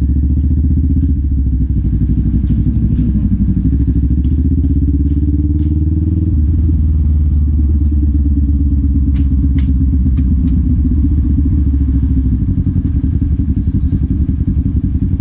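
Kawasaki Z400 parallel-twin engine and exhaust on the move, the revs climbing for a few seconds and then dropping suddenly about six seconds in, as at a gear change, before running steadily. A few light clicks come around nine to ten seconds in.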